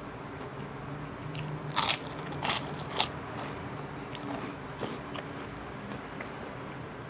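Crisp chicharon (fried pork rinds) being bitten and chewed close to the microphone: three loud crunches about two, two and a half and three seconds in, followed by softer crackling chews.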